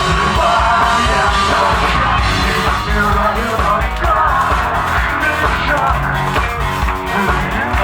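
Live rock band playing loudly, with drums, bass and guitars driving a steady beat.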